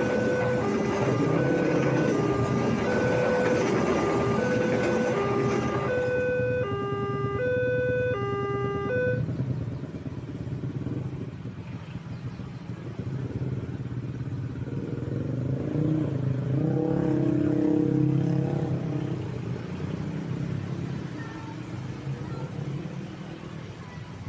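Railway level-crossing warning alarm sounding an alternating high-low two-note tone, over the rumble of a passing train that fades out about six seconds in; the alarm stops about nine seconds in. Motorcycle and car engines then rise as road traffic moves off across the crossing.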